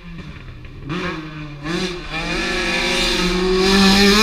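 Rally car engine at high revs on a special stage, rising in pitch twice as it accelerates through the gears, then held high and growing louder as the car approaches.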